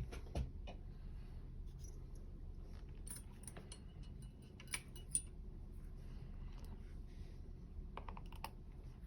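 Scattered small metallic clicks and taps from a dimple lock and picking tools being handled, with a quick run of clicks near the end, over a low steady hum.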